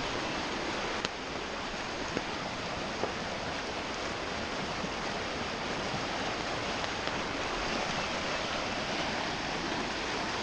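Flood-swollen creek rushing fast and high after about four inches of rain: a steady wash of fast-moving water, cranking. A few faint ticks about one, two and three seconds in.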